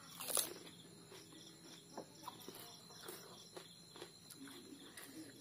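A crisp pani puri shell cracks loudly as it is bitten, under half a second in, followed by scattered small clicks of chewing. Crickets chirp steadily and faintly in the background.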